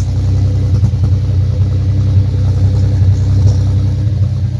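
Audi 3.2 FSI V6 engine running rough and unevenly with a cylinder misfiring, heard as irregular pops from the tailpipe. The number 2 cylinder's coil has been cut out by the engine computer because of a short in its wiring.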